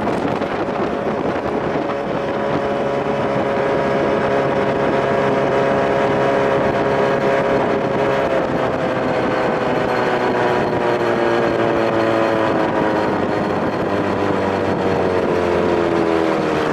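1993 Evinrude two-cylinder two-stroke outboard running under way, carrying a boat, with wind and water noise over it. Its pitch holds steady for the first half and then falls slowly, the engine coming down in revs.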